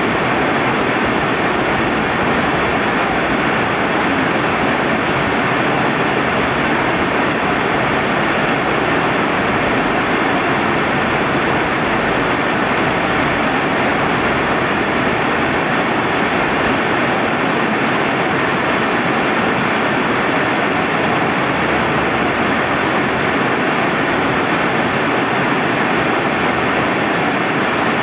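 Rain falling steadily beside a flowing river: an even, unbroken rush of water noise with no separate drops or splashes standing out.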